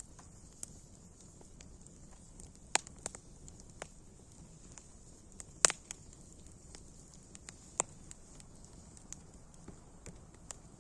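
Wood fire burning with a steady hiss, broken by scattered sharp crackles and pops; the loudest pop comes about five and a half seconds in.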